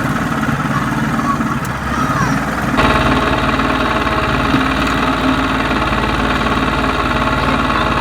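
Garden tractor engine running steadily, turning abruptly louder and fuller about three seconds in.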